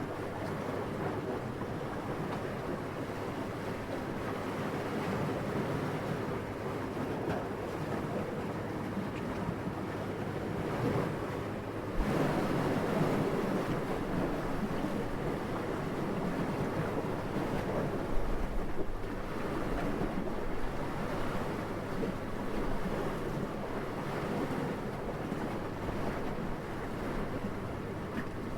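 Steady wind blowing, a continuous whooshing rush that swells and eases. It gets suddenly louder and fuller about twelve seconds in.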